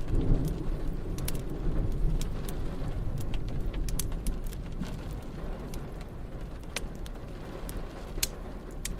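A long roll of thunder rumbles in right at the start, loudest over the first few seconds and slowly dying away, over the sharp pops of a crackling wood fire and steady rain.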